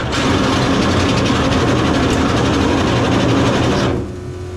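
A motor running steadily and loudly, cutting out for about half a second near the end and then running again.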